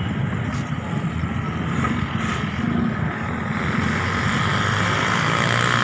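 Heavy rain pouring down: a steady, dense rush of noise.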